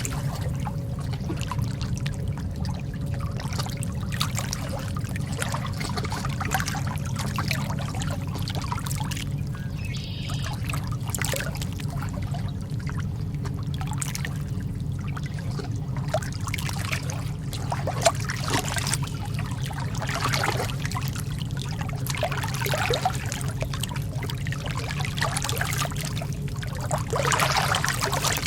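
Lake water lapping and trickling at the shore: small irregular splashes and gurgles over a steady low rumble.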